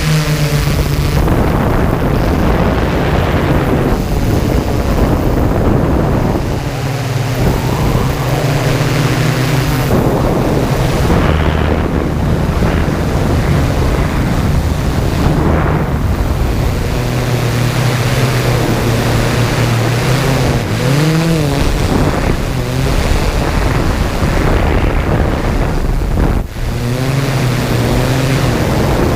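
Yuneec Typhoon G drone's motors and propellers humming, their pitch shifting up and down with the throttle, under heavy wind noise on the microphone.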